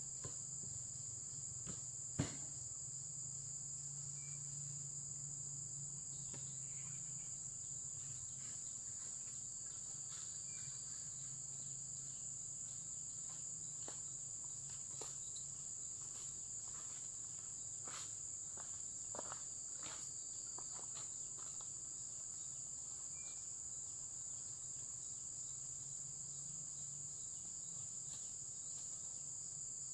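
Steady chorus of crickets, one continuous high trill. A sharp click comes about two seconds in, and a scattering of fainter clicks and taps follows around the middle.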